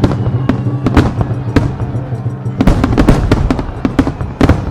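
Aerial fireworks bursting in quick succession: many sharp bangs, some in dense clusters, each with an echoing tail, over music playing.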